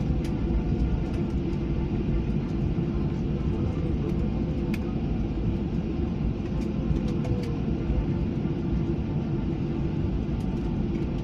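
Steady rumble of an airliner's engines and airflow heard from inside the passenger cabin, with a few faint clicks and rattles.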